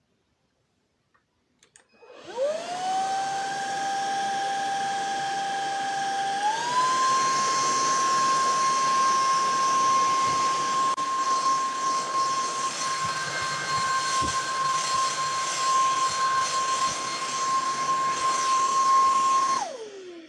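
INSE cordless stick vacuum cleaner switched on: its motor spins up to a steady high whine with a rush of air, steps up to a faster, higher-pitched speed about four seconds later, runs steadily, then is switched off and winds down near the end.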